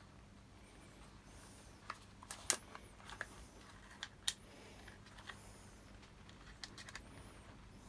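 Light clicks and taps of small parts and tools being handled on the workbench, scattered and irregular, the loudest about two and a half seconds in, over a faint steady hum.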